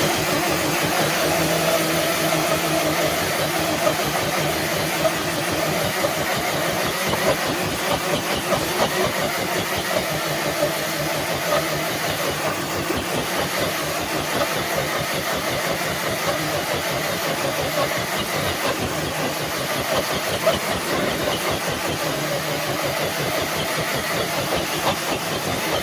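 Electric RC scale truck's motor and geartrain running hard under load as it drags a dead-weight pulling sled, a steady rattling whine with a few small clicks along the way.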